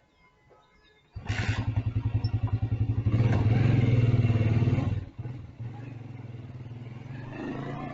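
Motorcycle engine cutting in abruptly about a second in, running with a fast pulsing beat, louder from about three to five seconds in, then dropping to a quieter steady run.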